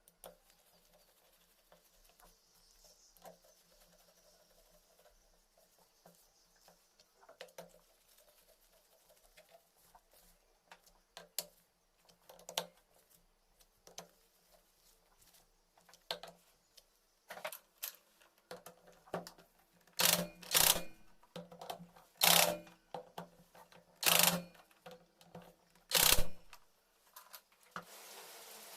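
Hand tools clicking and tapping on metal motorcycle engine parts, irregular and light at first, then five loud sharp knocks about one every second and a half near the end.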